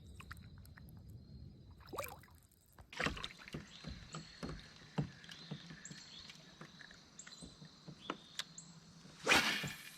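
Knocks and taps of gear against a kayak hull, with light water sounds. A short, louder rushing noise comes near the end.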